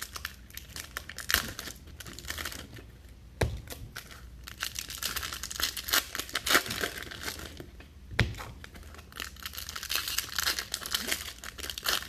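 Foil trading-card pack wrappers crinkling and tearing as packs of Topps Chrome are ripped open, with a couple of dull thumps along the way.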